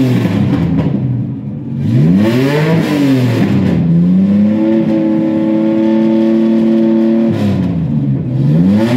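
Car engine being revved: a quick rev that rises and falls, then a rev held at a steady pitch for about three seconds from around the middle, which then drops away, and another short rev near the end.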